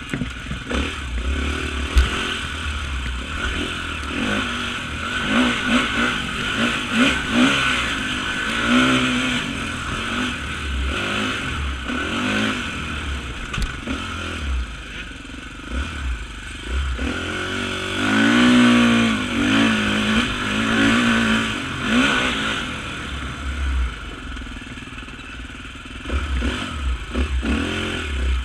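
Off-road motorcycle engines revving up and falling back as the bikes race, with a louder bike about two-thirds of the way through. A steady hiss and low rumble run underneath.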